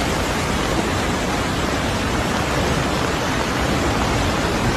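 Steady, loud rushing of storm water, an even hiss with no let-up.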